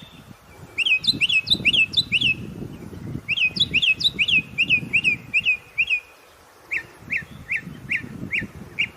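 A songbird singing phrases of quick, repeated, sweeping whistled notes. About two-thirds of the way through it pauses briefly, then goes on with an even run of lower, clipped notes at about three a second.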